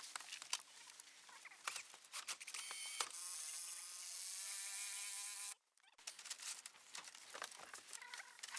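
Scattered sharp knocks and taps of hand work, then a small motor buzzing steadily for about three seconds, starting with a knock and cutting off abruptly.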